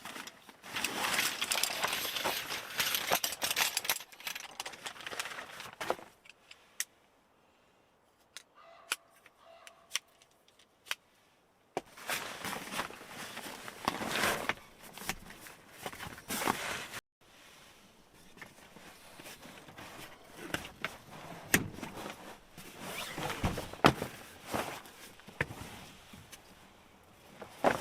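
Camping gear being handled while a tent and camp cot are set up: bursts of rustling and clattering with small knocks and clicks. There is a quieter stretch of a few seconds with only scattered clicks.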